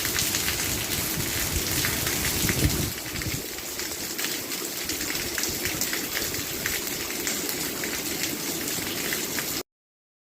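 Steady rain falling, with many individual drops pattering on a surface. It cuts off suddenly to silence just before the end.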